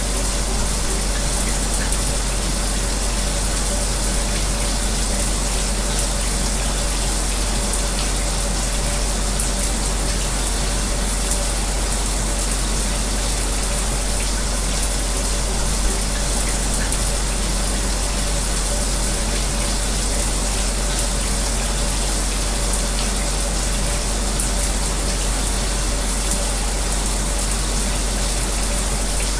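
Running shower spray mixed with an electric fan's steady whir: a constant rush of falling water over a low hum, unchanging throughout.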